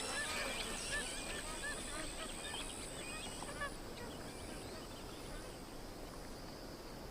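Magpie geese honking: a quick string of short calls from several birds that thins out and stops about three and a half seconds in, leaving a faint hiss.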